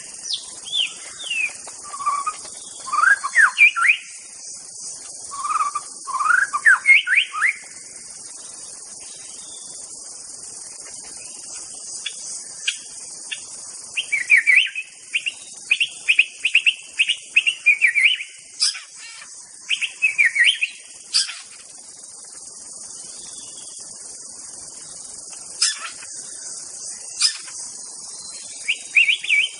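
White-rumped shama (murai batu, Medan type) singing in bursts of quick whistled phrases and fast repeated notes, with pauses between the bursts, over a steady high insect drone.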